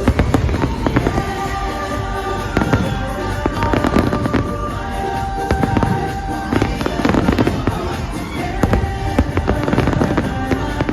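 Fireworks going off in rapid succession, sharp bangs and crackles over music playing along with the show.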